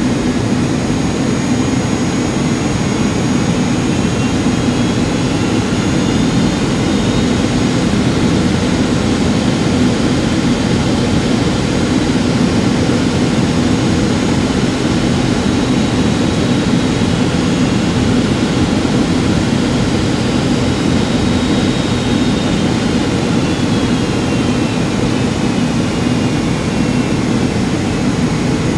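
Steady jet engine and airflow drone of a Boeing 757-200 in flight, heard from inside the cabin. A faint high turbine whine rises in pitch a few seconds in and falls again near the end, as engine thrust changes.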